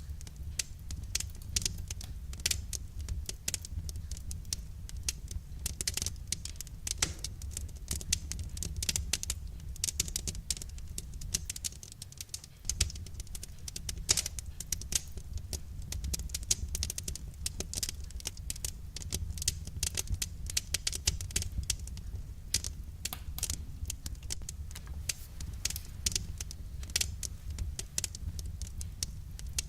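Wood fire crackling in a fireplace: a constant run of small sharp snaps and pops, a few louder ones, over a low steady rumble of the burning logs.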